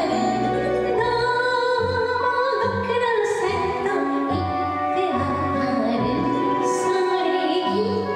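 A woman singing a Japanese children's song (dōyō) to instrumental accompaniment, the melody moving over steady bass notes.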